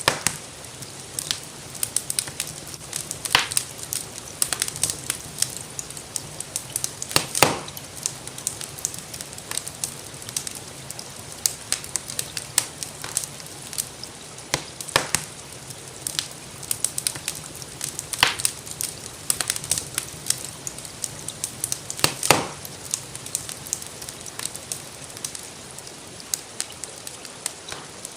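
Wood fire crackling in a fireplace: a dense run of small sharp snaps, with a few louder pops about 3, 7, 18 and 22 seconds in, over a steady soft hiss of rain.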